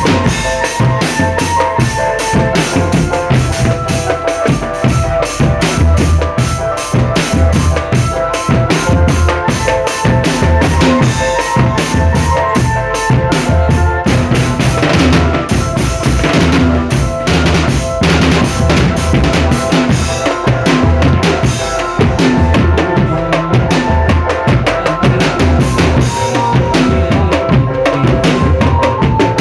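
Marching drum band playing: bass drums and snare drums beat a continuous rhythm with rimshots, under a melody of held notes.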